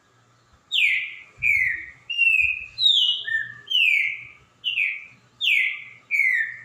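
Green-winged saltator (trinca-ferro) singing a phrase of about nine loud, clear whistled notes in quick succession, each sliding downward in pitch, with one shorter, lower note in the middle.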